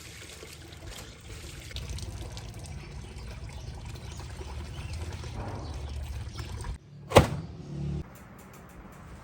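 Water pouring and trickling steadily, cut off abruptly about seven seconds in, then a single sharp knock.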